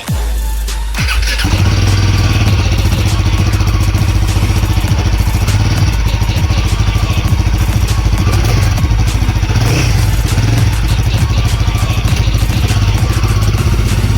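Royal Enfield Guerrilla 450's single-cylinder engine starting up, catching about a second and a half in and settling into a steady, loud, pulsing idle through its exhaust.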